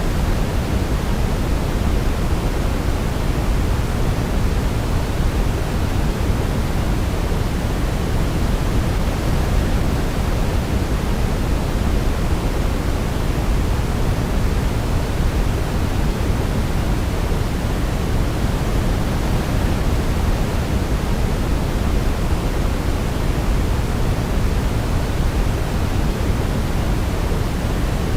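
Steady sleep-aid white noise, weighted toward the bass like pink noise: an even, unbroken hiss with no melody heard over it.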